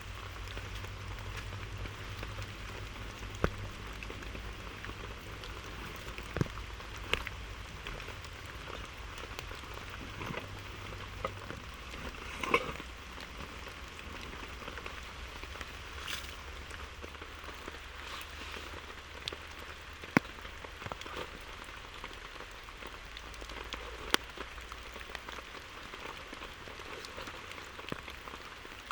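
Steady rain falling, with scattered louder single drops striking a surface now and then. A low steady hum runs underneath, dropping in pitch partway through and fading out near the end.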